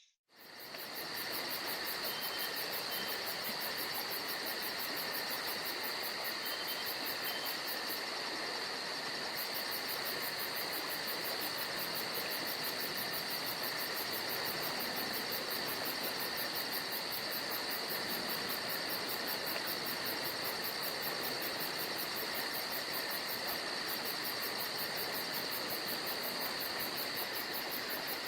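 Steady chorus of chirping insects in a forest: a continuous high chirring with a very rapid, very high pulsing trill over an even hiss. The trill drops out for a moment about eight seconds in.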